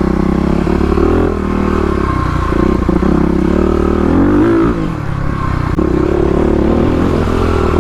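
Single-cylinder four-stroke engine of a modified Kawasaki KLX351 dirt bike running under throttle on a trail. About four and a half seconds in the engine eases off and its pitch falls, then it pulls again about a second later.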